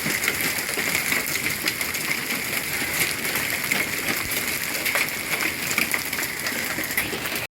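Hail and heavy rain pelting down, a dense patter of sharp ticks from hailstones striking over a steady hiss of rain.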